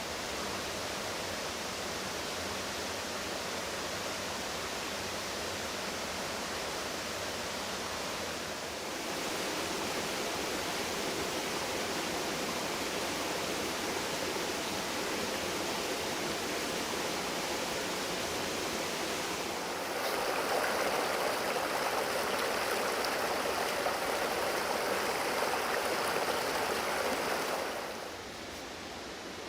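Floodwater rushing steadily, like a stream or weir overflow. It grows louder about a third of the way in and louder again about two-thirds in, then drops off near the end.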